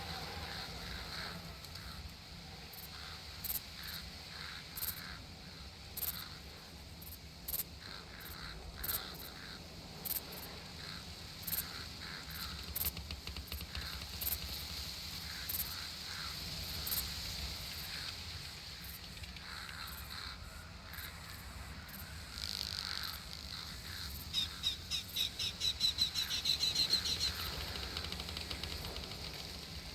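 Summer outdoor nature ambience: birds calling on and off over a steady high insect hum, with short scattered clicks. Near the end a rapid trill of chirps rises and falls for a few seconds, the loudest sound here.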